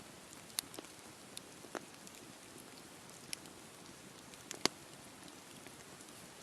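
Wood campfire burning: a steady soft hiss broken by scattered sharp crackles and pops, about half a dozen, the loudest a little over four and a half seconds in.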